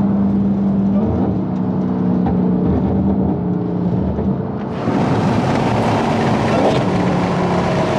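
A car driving at highway speed, heard from inside the cabin: a steady engine drone with road and tyre noise. A little under five seconds in, the sound turns brighter and hissier.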